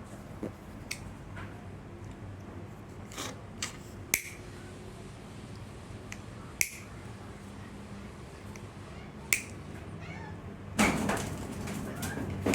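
A series of sharp, separate clicks and taps from small wiring parts being handled, such as a push clip and wire, over a steady low hum. A louder, longer sound comes about eleven seconds in.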